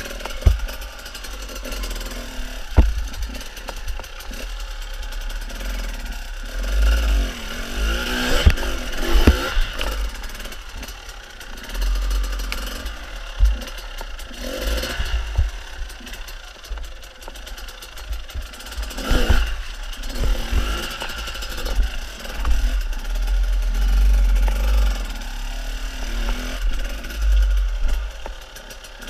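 Enduro motorcycle engine running unevenly, revving up and dropping back in bursts as the bike is worked through rocks, with sharp knocks and clatter of the bike against stone.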